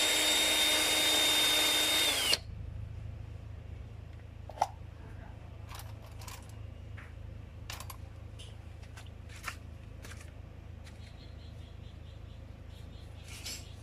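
A small electric power tool running steadily with a high whine, switched off about two seconds in and winding down. Afterwards come scattered light clicks and taps of metal parts being handled, one sharper than the rest, over a faint low hum.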